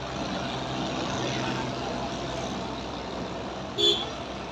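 Diesel engine of a new John Deere 5405 tractor running steadily, with faint voices around it. About four seconds in, a brief loud high beep cuts in over it.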